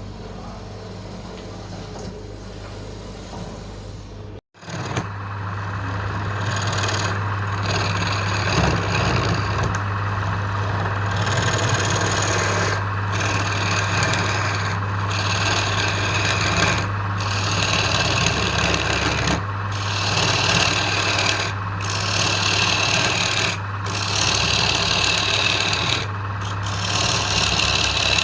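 Wood lathe running with a steady hum while a turning tool or abrasive rubs against the spinning wooden box blank. After a brief dropout about four seconds in, the rubbing gets louder and comes in passes of one to two seconds, with short breaks between them.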